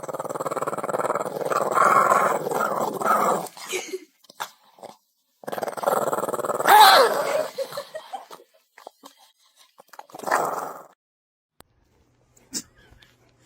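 A dog growling and grumbling in a long stretch, then again with a short rising-and-falling whine in it, and once more briefly near the end.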